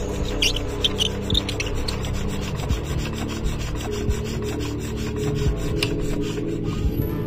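Kubota 8 HP single-cylinder diesel engine running, with a rapid, steady knocking beat.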